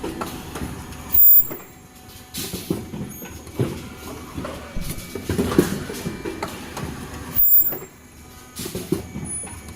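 N95 cup mask machine running automatically in a repeating cycle of mechanical knocks and hisses, with a louder sharp burst about every six seconds.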